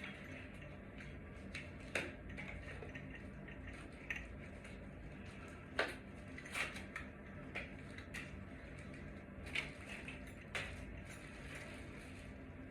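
Scattered light clicks and taps of small hard parts being handled, likely a ceiling fan light kit being fitted, with the strongest knocks about two and six seconds in, over a steady low hum.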